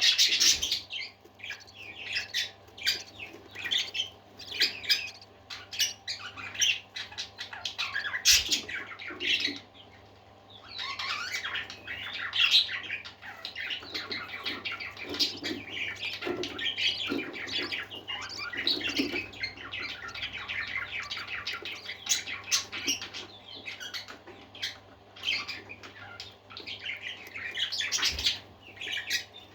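A flock of budgerigars chattering and warbling continuously, with rapid chirps and occasional squawks. A low steady hum runs underneath.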